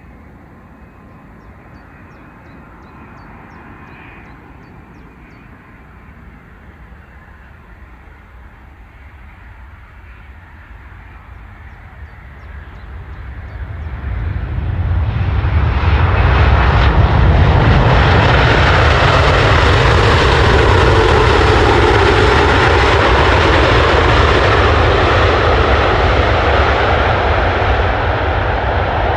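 Boeing 787-9 airliner's jet engines passing close by: a faint rumble swells into a loud roar about halfway through and stays loud, its tone slowly sweeping as the aircraft goes past.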